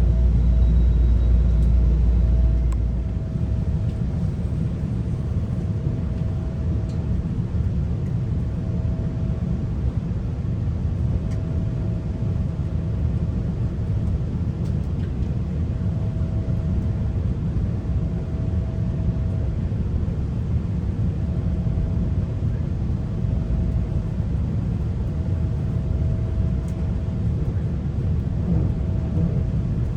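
Steady rumble of a GO Transit commuter train running on the rails, heard from inside the passenger coach. A deep low rumble eases off about three seconds in, and a faint hum comes and goes every couple of seconds.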